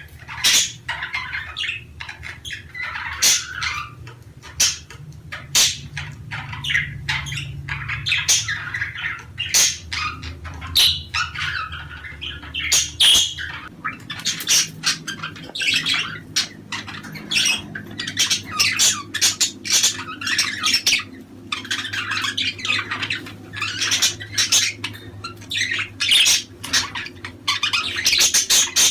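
A flock of budgerigars chattering, with rapid warbling chirps, squawks and clicks overlapping without pause, as budgies call when in breeding condition. A faint low hum runs underneath.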